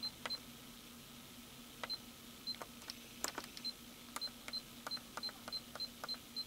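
Short high beeps, about a dozen all on one pitch, with sharp clicks from the navigation unit's controls as the help list is paged through. A faint steady hum runs underneath.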